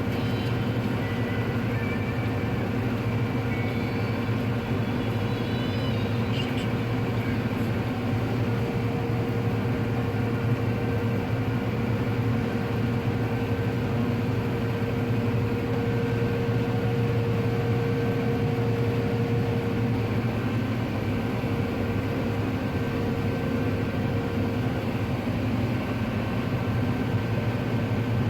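Combine harvester running while shelling corn: a steady drone from the engine and threshing machinery, with an even whine held throughout.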